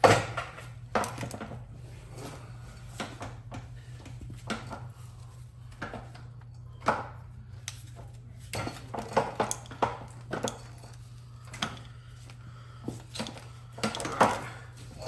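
Metal tools and small metal parts clinking and knocking as a paint sprayer is taken apart: irregular clicks and clatters, with the loudest knocks near the start and near the end, over a steady low hum.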